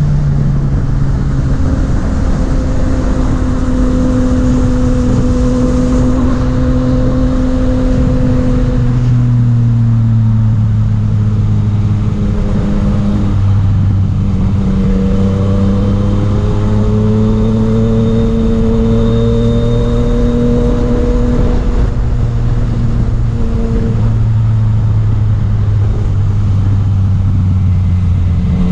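Yamaha MT-09's three-cylinder engine running under way, its pitch rising and falling with throttle and gear changes, over a steady rush of wind noise.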